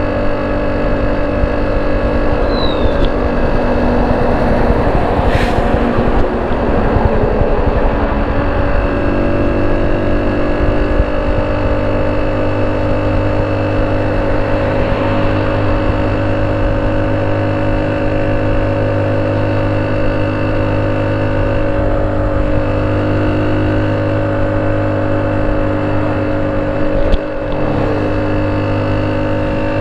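Honda C70 single-cylinder four-stroke engine running through a banana-shaped ('pisang') exhaust muffler. It mostly idles steadily, with a slight rise in revs a few seconds in.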